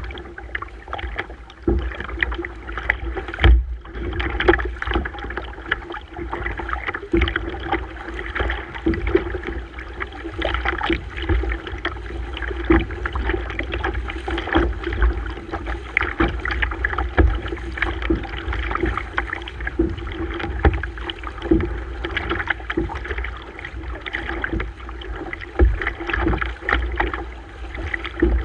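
Water splashing and sloshing around a kayak as it is paddled, with frequent irregular knocks and a low rumble throughout.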